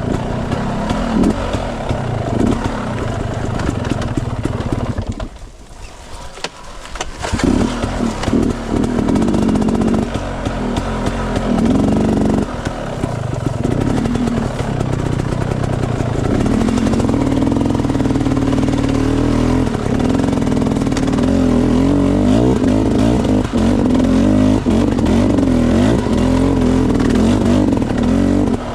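Enduro dirt bike engine running and revving under load, dropping away briefly about five seconds in, then picking up again.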